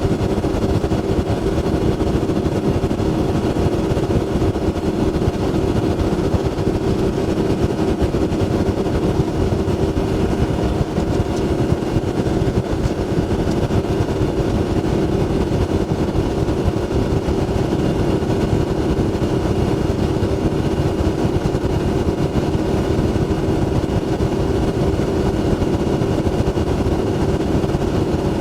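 Boat motor running steadily, a constant drone with a strong hum over low rushing noise.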